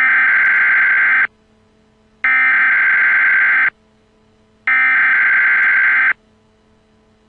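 Emergency Alert System SAME header: three bursts of harsh digital data tones, each about a second and a half long with about a second between them, that open an Emergency Action Notification broadcast.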